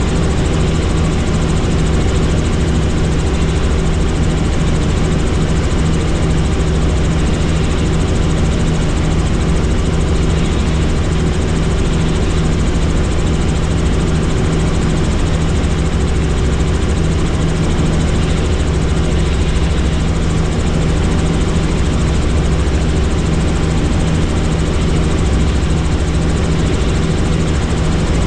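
Helicopter in steady flight: rotor and engine making an unbroken drone with a low rumble and a steady hum.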